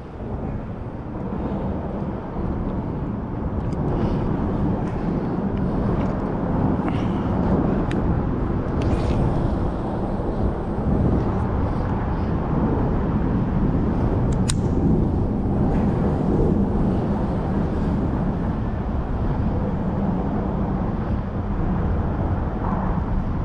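Steady low rumble of road traffic, building over the first few seconds and then holding, with a few faint clicks.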